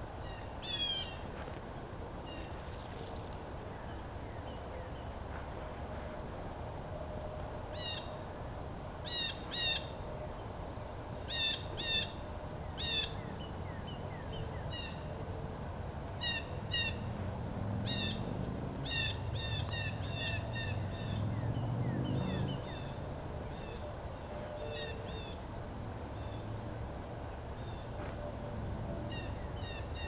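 Songbirds singing, short bright chirped phrases repeated over and over, busiest through the middle. A faint low rumble lies underneath and swells briefly about two-thirds of the way through.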